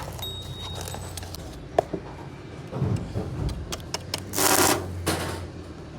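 Scattered metallic clicks and clinks of hand tools working on the engine, over a low steady hum, with one loud burst of hiss about four and a half seconds in.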